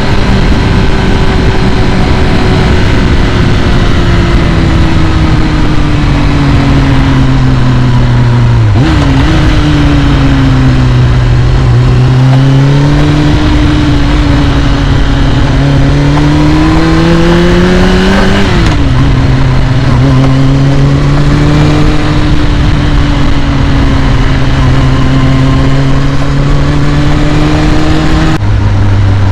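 Carbureted 2001 Kawasaki ZX6R inline-four warming up after a cold start on the choke, running at a fast idle. The idle speed sinks slowly, then climbs, with sudden drops about nine seconds in, at about eighteen seconds, and again near the end.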